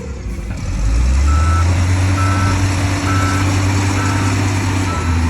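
Backup alarm of a heavy earthmoving vehicle beeping about once a second, starting a little over a second in, over the loud low drone of its diesel engine, which picks up about a second in as the machine reverses.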